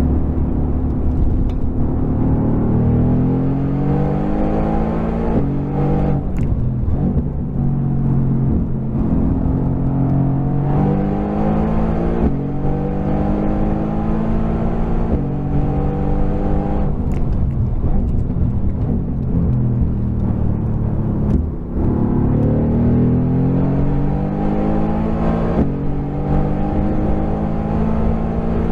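Mercedes-AMG GT R's twin-turbo 4.0-litre V8, run with its exhaust baffles open, accelerating hard on track. The engine note climbs through the revs and breaks and drops several times at gear changes and braking.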